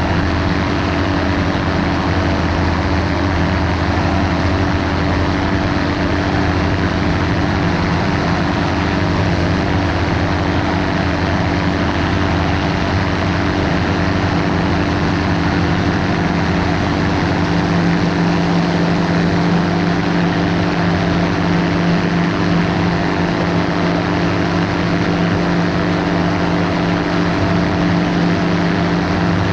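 Ultralight aircraft's engine and propeller running steadily at constant power, a continuous drone with a slight change in tone a little past the middle.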